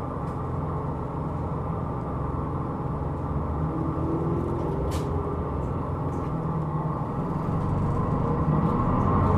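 Hino Rainbow II non-step bus running, heard from inside the cabin: a steady engine and road rumble with a faint whining tone about four seconds in and a single click about five seconds in, growing louder over the last two seconds as the bus picks up speed.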